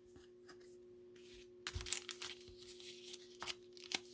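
Trading card pack wrapper crinkling and tearing, faint and irregular, starting about a second and a half in.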